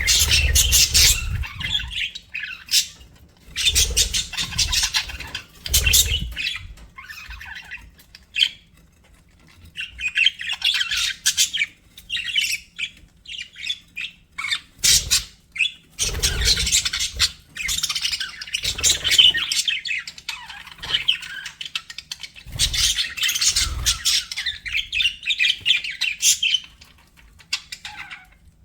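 Budgerigars chattering and warbling in bouts of fast, high chirps and squawks, with short pauses between bouts and low bumps under some of them.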